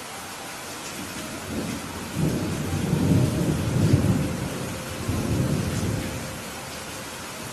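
Rolling thunder over steady rain: a low rumble builds about a second and a half in, peaks in the middle, swells once more, and dies away near the end while the rain hiss goes on.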